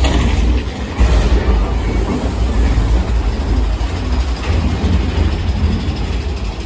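Mine-train roller coaster cars rumbling and rattling along the track at speed, with a sharper clatter about a second in.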